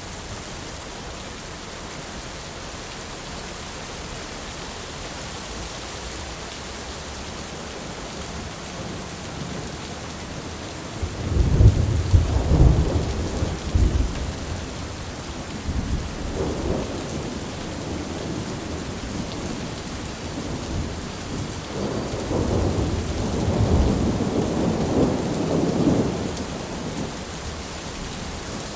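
Thunderstorm: steady rain hiss throughout, with a loud thunder rumble breaking about eleven seconds in, a weaker rumble a few seconds later, and a longer rolling peal of thunder near the end that fades out.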